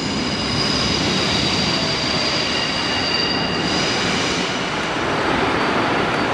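Passenger train running through a station, with a steady rumble of wheels on the rails and a high-pitched wheel squeal that fades out after about three and a half seconds.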